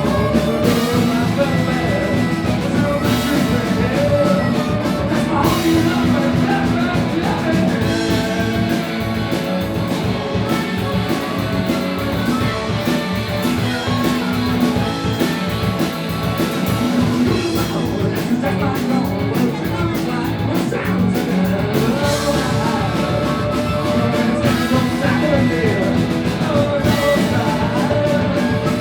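Rock band playing live, with drum kit and a singing voice over the band.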